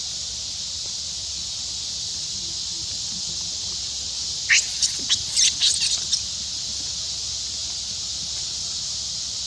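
A quick run of about eight short, sharp, high-pitched animal squeaks, starting about four and a half seconds in and lasting under two seconds, over a steady high drone.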